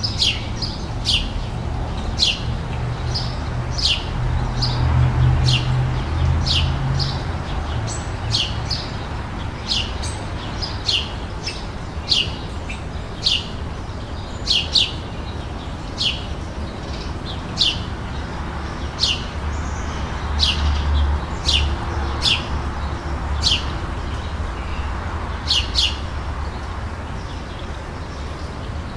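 A songbird calling with short, sharp chirps that slide downward, repeated about once a second. A steady low rumble runs underneath.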